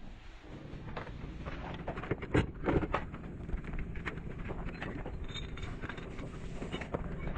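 Truck cab repair work: scattered knocks and clatters over a low steady hum, the two loudest knocks close together about two and a half seconds in.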